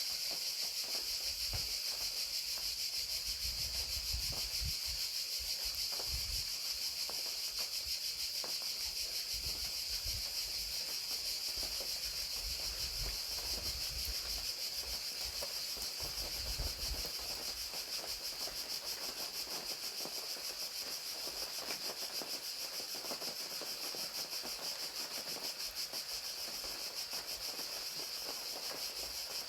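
Crickets trilling in a steady, high-pitched chorus over rain falling, with a low rumble that comes and goes through the first half and then fades.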